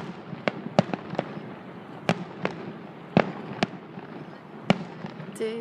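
Fireworks going off in a display's finale: about ten sharp bangs at uneven intervals, some close together, over a steady background rumble and crackle.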